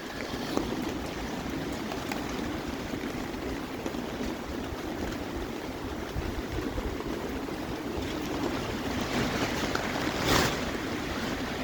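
Steady rain falling, a continuous rushing hiss, with one brief louder burst about ten seconds in.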